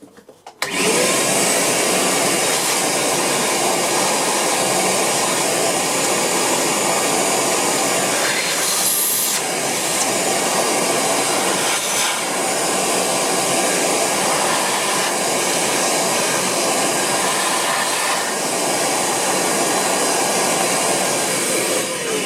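Vacuum cleaner switched on with a short rising whine under a second in, then running steadily as it sucks dust out of an electronics box. It starts winding down near the end.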